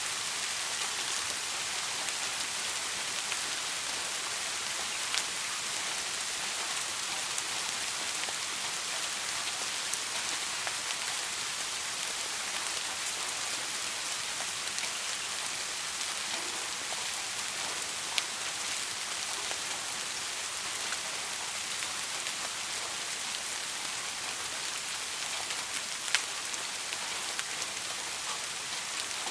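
Steady soft rain: an even hiss of many drops falling, with a few sharper single drop ticks standing out.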